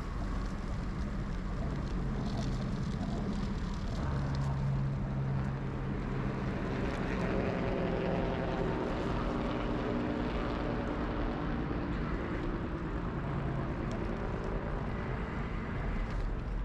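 Steady wind and riding rumble on the helmet-mounted action camera's microphone while cycling. A motor drone joins about four seconds in and fades out a few seconds before the end.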